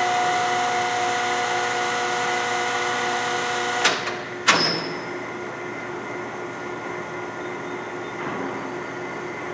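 LeBlond Regal engine lathe running at its 98 rpm spindle speed, its headstock gearing giving a steady whine. Two sharp clunks come about four seconds in, and after them the whine drops away, leaving a quieter steady running sound.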